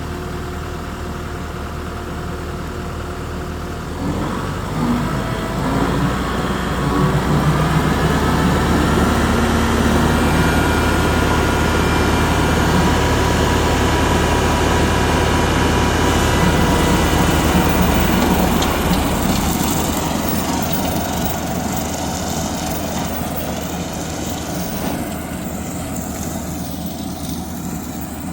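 An engine running steadily. It gets louder about four seconds in, stays loudest through the middle, then fades over the last several seconds.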